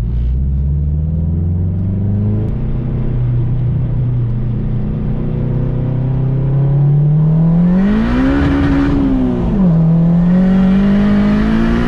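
Turbocharged Honda K20A2 2.0-litre four-cylinder (GT35 turbo, 3-inch exhaust) of an Acura RSX pulling under load. The engine note climbs slowly, then the revs rise sharply about eight seconds in and drop back, and rise and drop again near the end, with a hissing rush over the top at each peak.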